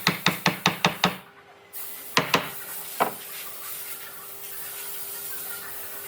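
Rapid, even strokes of a hand tool working wood, about six a second, stopping about a second in; three single knocks follow, then a faint steady hiss.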